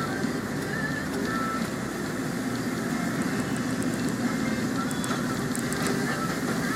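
Car driving on an expressway in heavy rain: steady road and tyre noise with rain hitting the car, and scattered sharp ticks that grow more frequent in the second half.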